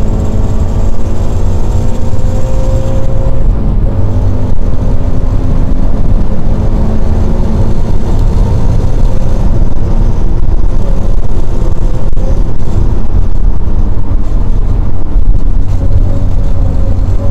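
Toyota GT86's FA20 flat-four boxer engine pulling hard near the top of its rev range, heard inside the cabin over heavy road and wind noise. It shifts up about three seconds in, keeps pulling, then eases off the throttle later on.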